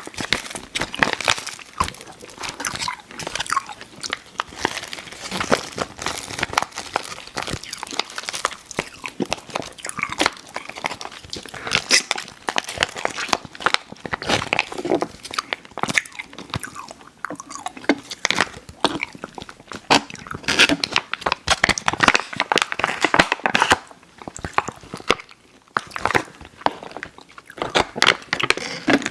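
Close-miked chewing of Airheads Xtremes sour candy: irregular chewy mouth clicks and smacks with a brief pause near the end.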